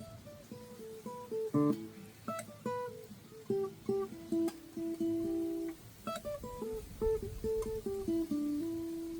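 Steel-string acoustic guitar playing a single-note blues scale pattern, notes plucked one at a time with a short pause about two-thirds of the way through.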